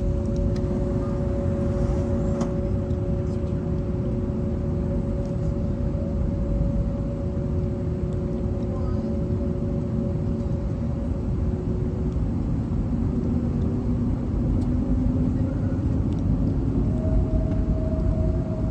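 Airbus A321neo on the ground with its CFM LEAP-1A engines running: a steady rumble with two steady whining tones. The lower tone fades about two-thirds of the way through, and a slightly higher one comes in near the end.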